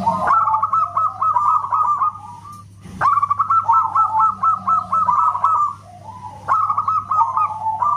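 Zebra dove (perkutut) singing loudly: three bouts of rapid repeated cooing notes, each starting suddenly, with short pauses between.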